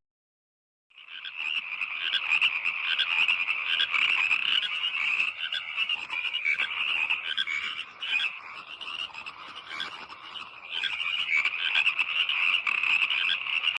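A chorus of frogs calling, many overlapping calls forming a dense, continuous pulsing din that starts about a second in.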